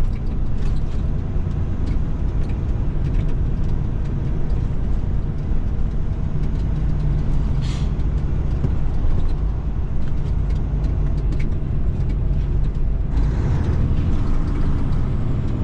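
Cat 3406E inline-six diesel of a Freightliner FLD120 running steadily under way, heard from inside the cab as a low drone with road noise. A brief hiss comes about eight seconds in, and a louder spell of road noise comes near the end.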